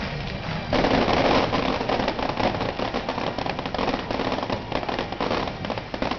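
Aerial fireworks going off in a dense barrage: a mass of rapid pops and crackles starts suddenly about a second in and keeps on without a break.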